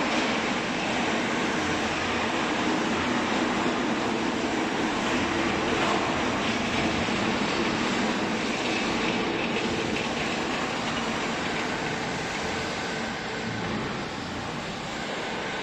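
Steady machinery noise of a used-clothing baler running, easing slightly near the end.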